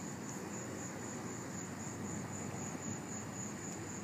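Crickets trilling in a steady, high-pitched night chorus over a low background rumble.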